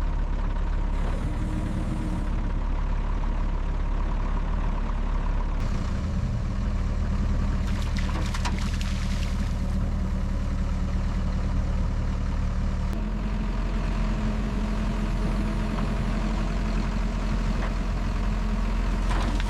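Heavy recovery truck's engine running steadily, its note shifting about six seconds in and again about thirteen seconds in as the load on it changes.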